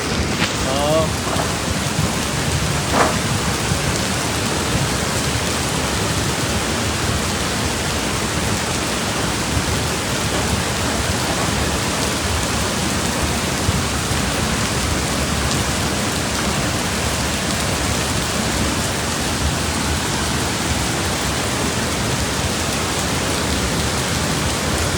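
A steady, dense rush of water, unchanging throughout, from monsoon flood conditions.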